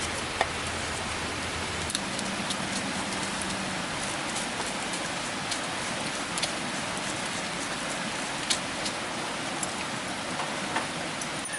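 Steady rain falling, an even hiss with scattered sharper drops ticking close by.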